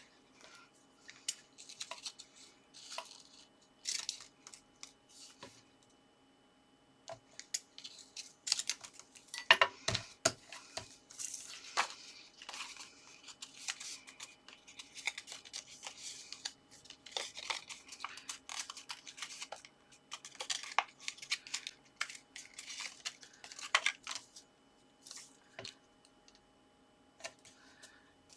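Paper and card being handled and taped: irregular rustling, crinkling and tearing sounds, with a cluster of sharper taps about ten seconds in.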